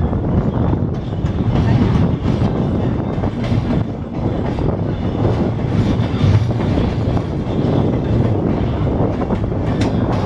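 Passenger train rolling along the track, heard from aboard: a steady rumble of wheels on rail with irregular clicks over the rail joints.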